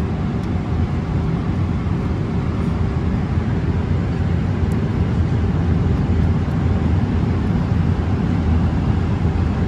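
Steady cabin noise of a Boeing 777-300 airliner in flight: an even, deep rush of engines and airflow with a faint steady hum above it.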